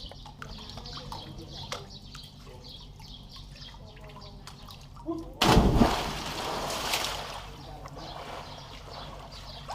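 A sudden loud splash of water about five and a half seconds in, fading away over about two seconds, against a quieter background of faint scattered ticks.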